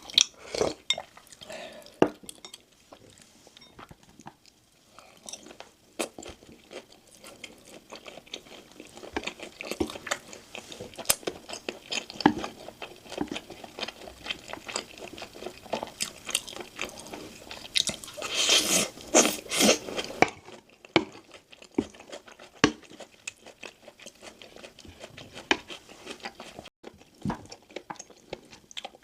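Close-miked mukbang eating: steady chewing with crisp crunches, with a run of loud crunches about two-thirds of the way through, typical of biting into crispy dakgangjeong (fried chicken).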